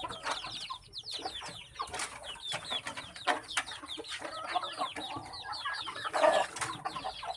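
A flock of chickens clucking and calling over one another, many short falling calls overlapping without a break.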